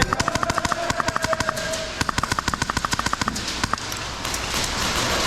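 Airsoft gun firing two rapid full-auto bursts of about a second and a half each, the second starting about two seconds in, followed by a couple of single shots.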